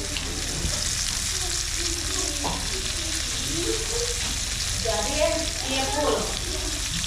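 Small birds frying in hot oil, a steady sizzle, with faint voices in the background.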